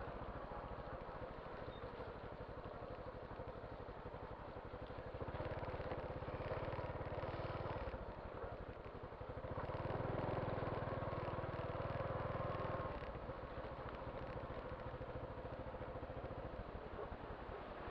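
Motorcycle engine running steadily, growing louder for a few seconds twice.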